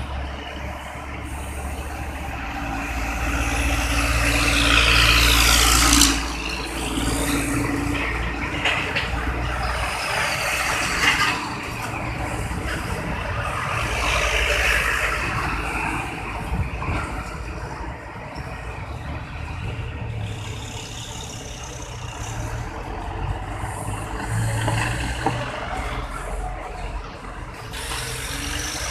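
Heavy trucks and other traffic passing at a road junction, engines rumbling. One loud pass builds to its peak about five to six seconds in and drops away sharply, and there is a short sharp burst of noise about eleven seconds in.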